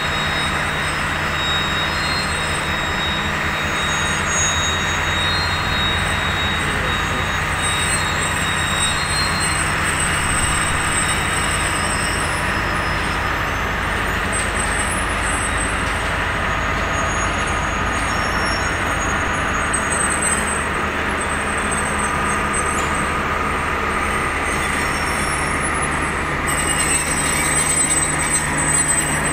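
Pakistan Railways passenger train pulling out, its diesel locomotive running steadily under the rumble of the rolling coaches. Near the end the sound grows louder, with wheel squeal added.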